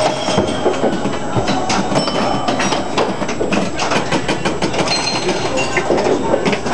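A 1963 Midway Champ electromechanical pinball machine in play: a dense, continuous clatter of relays and score-reel clicks, with short ringing tones among them.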